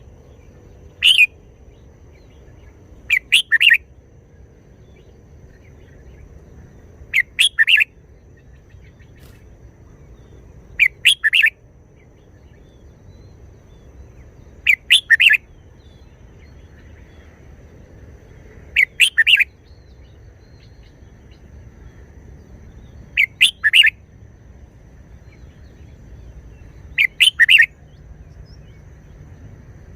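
Red-whiskered bulbul singing short phrases of two or three quick notes, about one phrase every four seconds, eight times in all. A faint steady low hum lies underneath.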